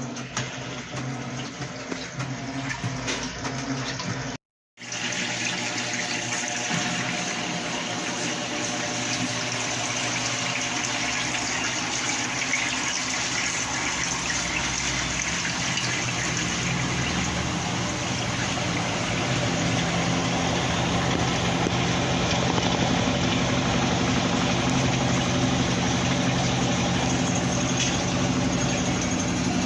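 Electrolux LQ11 top-load washing machine filling its tub with water: a steady rush of water pouring in, with a faint hum underneath. The sound drops out for a moment about four and a half seconds in.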